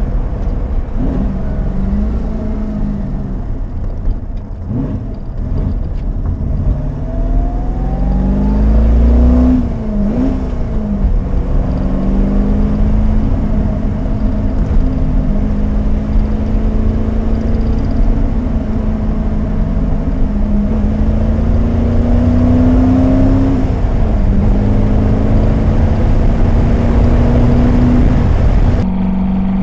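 1966 TVR Grantura's 3.9-litre V8 under way, heard from inside the cabin. The engine note climbs steadily as it accelerates, drops at gear changes about ten seconds in and again around twenty-four seconds, then climbs again.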